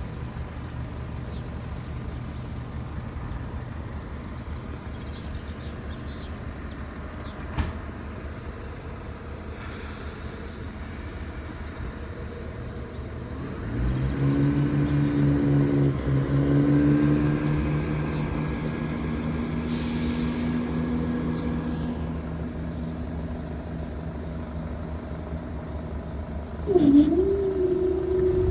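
Diesel locomotive engine idling with a low hum, then powering up about halfway through to a louder, steady multi-tone engine note as the light engine moves off. Near the end a louder tone briefly dips and then holds.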